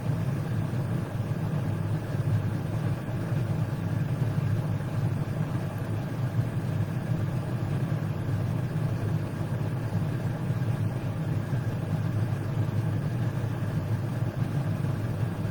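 Steady low mechanical hum, even throughout with no change.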